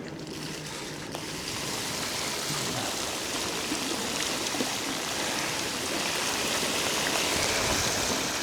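E-bike tyres ploughing through a deep puddle: a steady rushing hiss of spraying water that swells about a second in and grows slowly louder.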